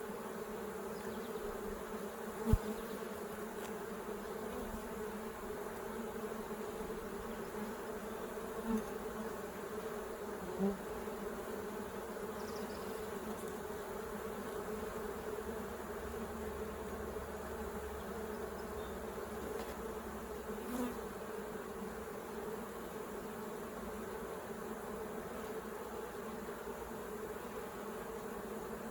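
A honeybee colony buzzing steadily around an opened hive. A sharp knock about two and a half seconds in and a few softer bumps later come from the hive parts being handled.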